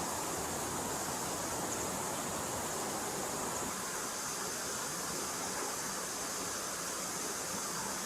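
Forest stream flowing steadily: an even, unbroken rush of water.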